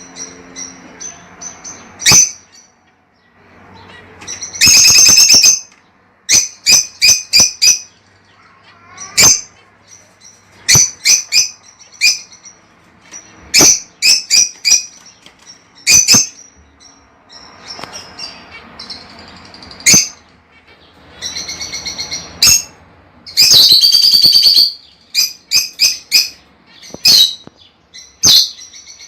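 Lovebirds calling: loud, sharp, high-pitched chirps, some single and some in quick runs of three or four, with two longer bouts of rapid shrill chattering, about five seconds in and again after about twenty-three seconds.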